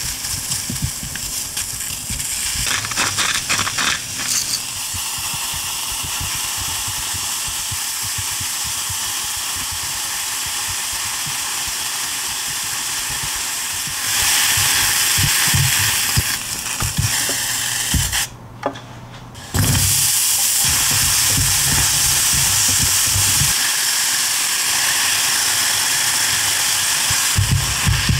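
Sliced mushrooms sizzling as they sauté in a frying pan, with a few light taps from the silicone chopsticks early on. The sizzle grows louder about halfway through, drops away for about a second, then returns.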